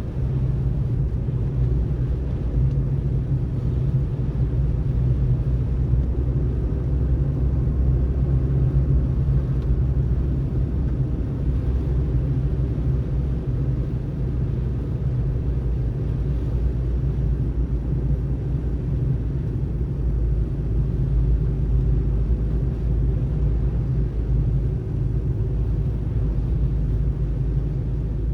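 Car driving at a steady speed: an even low rumble of tyres on the road and the engine.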